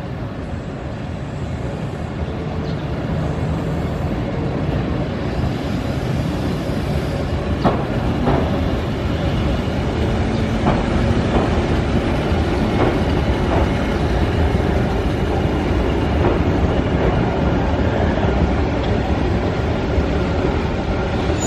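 Keihan 600-series electric train running on street-level tracks, approaching and passing close by. Its rumble grows louder over the first several seconds, then holds steady. From about eight seconds in comes a run of sharp wheel clacks over rail joints.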